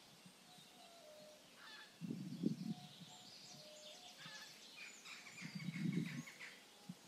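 Small birds chirping and calling in woodland, with two louder, low, rough noises about two seconds and six seconds in.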